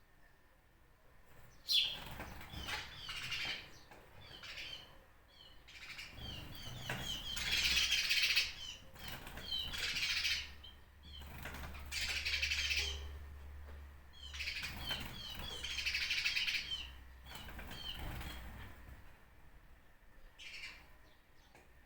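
Small birds chirping, with short calls repeated in quick series throughout. Several louder rustling swells about a second long come through the middle.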